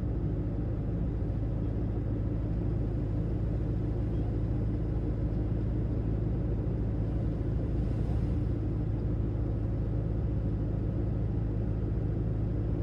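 Heavy truck driving steadily, its engine and tyres making a low, even drone heard from inside the cab.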